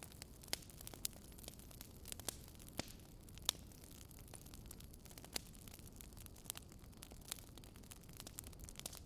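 Wood campfire crackling and popping in irregular sharp snaps, several a second, the sharpest pop about three and a half seconds in, over a steady low rush of a river.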